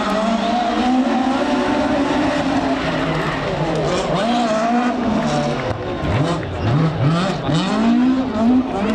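Rally car engine at high revs, then accelerating hard through several quick upshifts from about six seconds in, each rising note cut off at the gear change.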